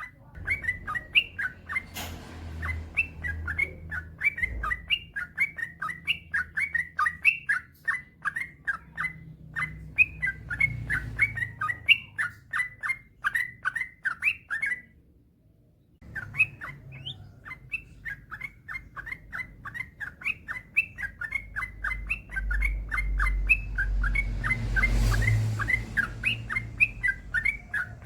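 Yellow-vented bulbul (trucukan) singing a long run of short, quick chattering notes. It breaks off for about a second about halfway through, then starts again. A low rumble sits under the song near the end.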